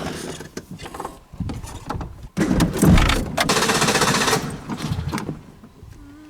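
Peugeot 205 engine being cranked and sputtering, struggling to come to life. It is loudest from about two and a half to five seconds in, then fades.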